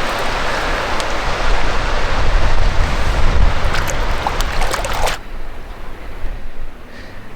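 Wind buffeting the microphone outdoors: a loud, steady rushing with heavy low rumble and a few small ticks, which cuts off suddenly about five seconds in, leaving a much quieter background.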